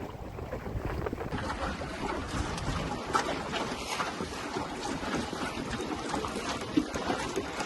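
Wind buffeting the microphone on a small sailing boat under way, with water splashing and sloshing along the hull and a few small knocks.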